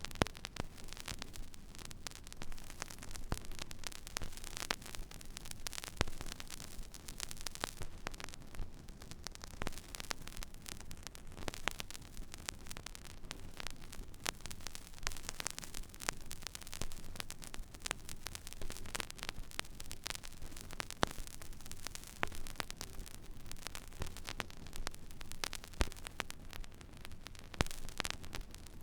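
Record player stylus riding an empty vinyl groove: steady surface hiss over a low hum, with frequent scattered crackles and pops.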